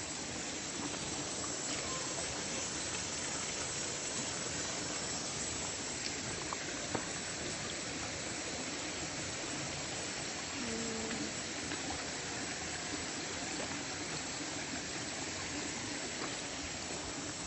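Steady rushing of a flowing river, with a few faint clicks over it.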